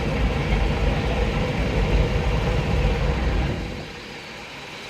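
Engine of a vintage vehicle running steadily as it moves past in a slow line-up, with a low rumble that drops away sharply about three and a half seconds in.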